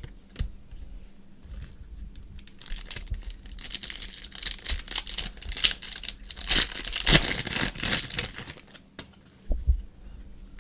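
A trading card pack's plastic wrapper being torn open and crinkled, with the cards inside handled; the crackling rustle builds up about three seconds in and dies down near the end.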